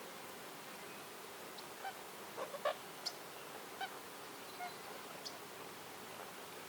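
A bird giving several short, nasal calls, loudest about two and a half seconds in, over a steady background hiss.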